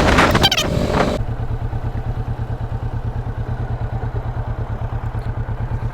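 About a second of loud rushing noise that cuts off suddenly, then a motorcycle engine idling with a steady, even beat of several pulses a second.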